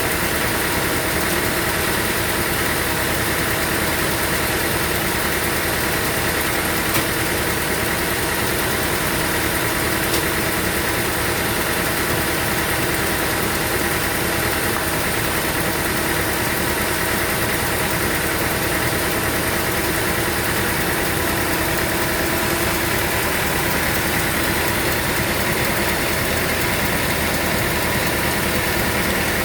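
Sawmill machinery running steadily at an even speed, a constant droning hum with a few faint ticks in the first third.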